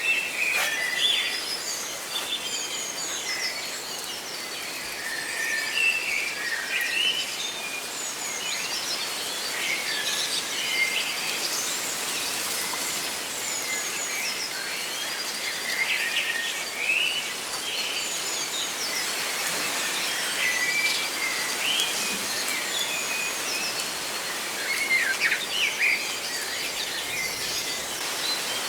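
Several small birds chirping and trilling in short, overlapping calls throughout, over a steady rustle of leaves in the wind.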